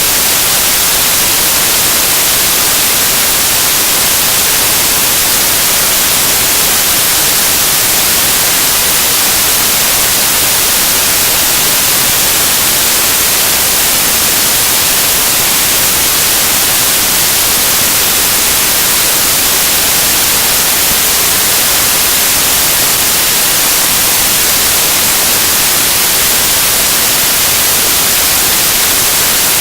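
Loud, steady static hiss, even and unchanging, strongest in the treble, with nothing else heard.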